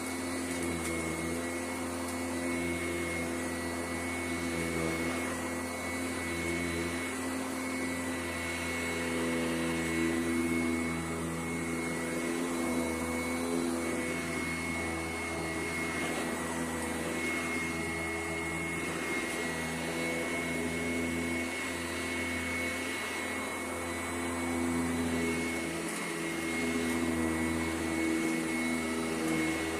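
Sanitaire SC881 upright vacuum cleaner running steadily on a carpet, a continuous motor whine with a steady high tone over a low hum, swelling and easing slightly as it is worked back and forth.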